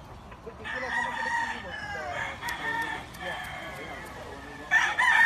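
Roosters crowing, several birds overlapping and answering one another at different distances, with a louder, closer crow starting near the end.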